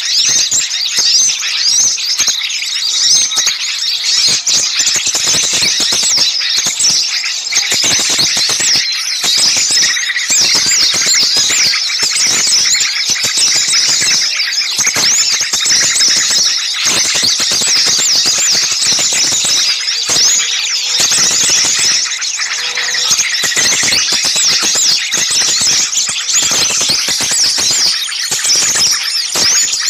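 Many small songbirds calling noisily all at once: a dense, unbroken chatter of rapid high-pitched chirps and squeals. This is the excited, agitated flock noise used as a lure call to draw small birds in.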